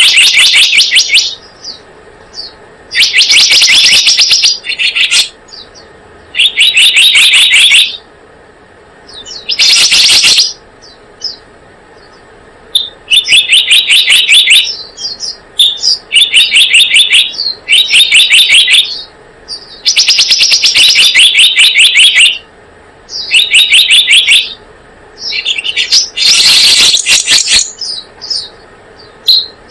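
Selendang biru bird call, as played from a lure recording: loud, rapid trills of repeated chirping notes, each lasting a second or two, repeated over and over with short pauses between them.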